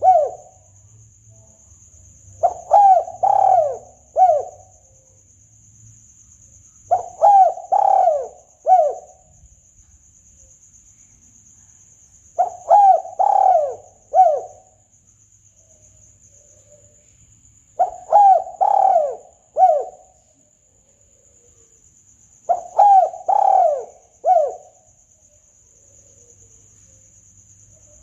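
Spotted dove (tekukur) calling: a phrase of three to four coos, each rising and falling in pitch, repeated about every five seconds. This is a recorded lure call used to draw in doves for hunting.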